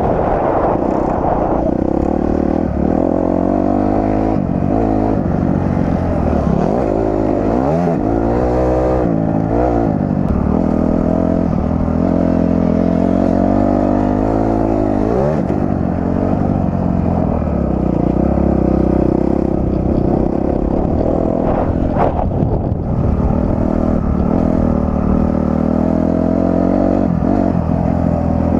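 Dirt bike engine running hard, its pitch climbing and dropping again and again as the throttle is worked, with a few fast swings in pitch. A single sharp knock about three quarters of the way through.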